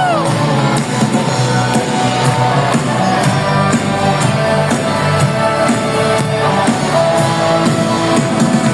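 Live band playing an instrumental passage of a rock ballad between sung lines, loud and steady, with no clear lead vocal.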